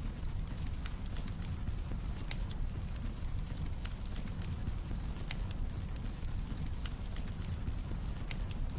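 Wood fire crackling with irregular sharp pops, over a steady high chirring of night crickets and a low rumble.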